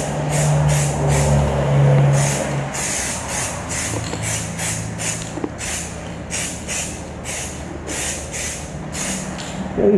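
A 2K aerosol spray can of paint hissing in short bursts, two or three a second, as light dusting coats go onto the brackets of a motorcycle frame. A steady low hum runs underneath.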